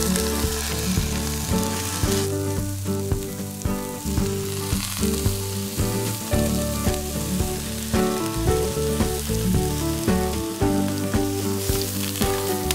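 Lobster shells, shallots and carrot sizzling in hot oil in a pot, stirred with a spatula. Background music plays underneath.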